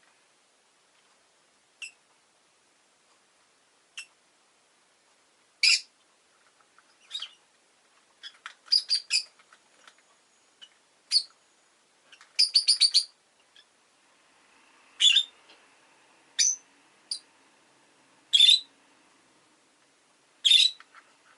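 Rosy-faced lovebird chirping: short, sharp, high chirps every second or two, with two quick runs of four to six chirps in the middle.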